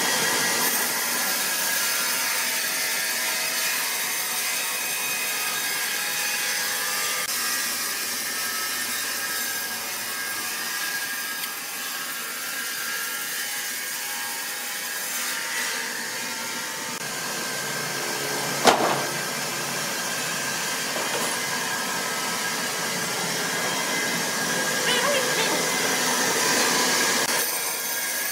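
Sawmill machinery running with a steady whir as a saw works through wood, with one sharp knock about two-thirds of the way through.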